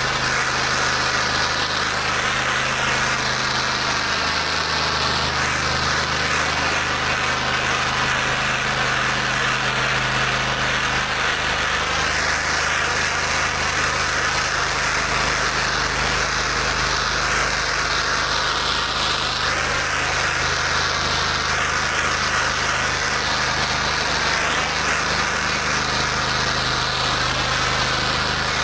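A pressure washer's engine running steadily under a constant hiss of high-pressure water spraying onto the surface being cleaned.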